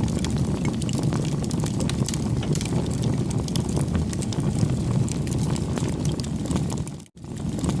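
Campfire crackling: a steady low rumble of burning wood with frequent small pops and snaps. It drops out for a moment about seven seconds in, then comes back.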